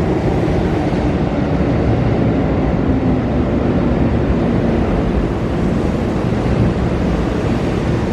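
Electric commuter train running along a station platform: a steady rumble of wheels on rail and running gear at close range.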